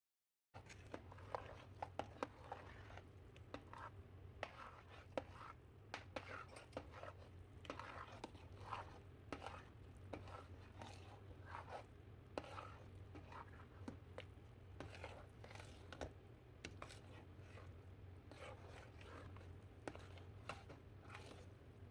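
Light, irregular clicks, knocks and scrapes of kitchen utensils at work, over a steady low hum.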